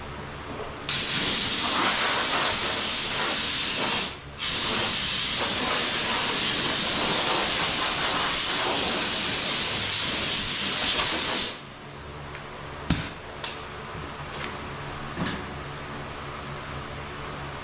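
Paint spray gun hissing as clear coat is sprayed onto a car bumper: one long pass, a brief release of the trigger about four seconds in, then a second long pass that stops near the end. A few light clicks follow.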